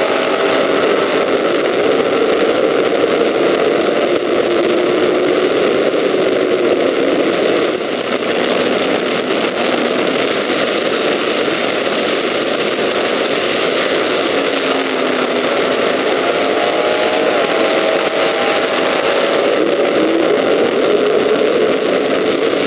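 Stock and Super Stock drag cars running at full throttle down the drag strip, loud and continuous, with a brief drop about eight seconds in as one run gives way to the next and engine pitch climbing near the end.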